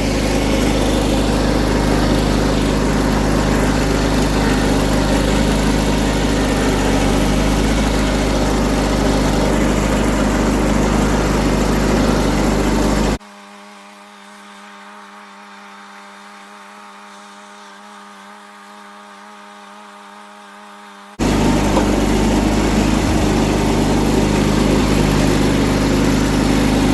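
John Deere 317 garden tractor's engine running steadily under load, driving its rear-mounted tiller through garden soil. About halfway through the sound turns much quieter and thinner for about eight seconds, then comes back at full strength.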